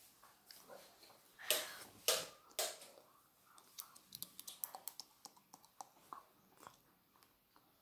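Close mouth sounds of a child biting and chewing a soft, chewy Korean rice cake stick (tteok): many small wet clicks in the second half. Three short, louder noisy bursts come between about a second and a half and two and a half seconds in.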